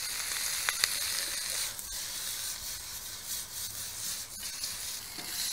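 Shrimp, bean sprouts and vegetables sizzling in a hot wok over a gas wok burner, a steady high hiss. A couple of sharp clicks come a little under a second in.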